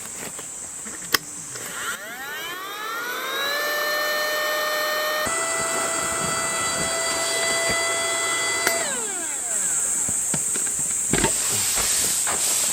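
Electric air pump motor spinning up with a rising whine, running steadily, stepping up slightly in pitch partway through, then winding down with a falling whine, over a steady airy hiss.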